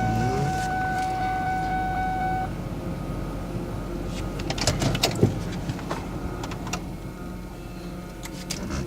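Car engine idling in the cold, with a steady whine over it that cuts off about two and a half seconds in; the whine fits the power steering pump the owner calls still pretty bad. A short run of clicks and knocks follows a couple of seconds later.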